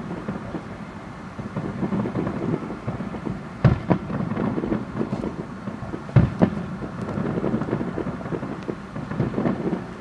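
Aerial fireworks bursting: a continuous rumble of booms, with sharper bangs in two close pairs about four and six seconds in.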